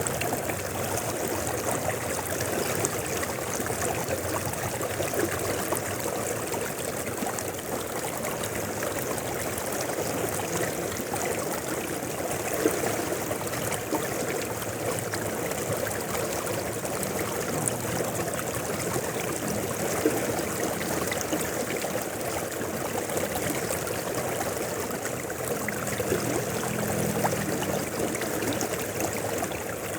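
Mountain river flowing: a steady, continuous rushing and burbling of water.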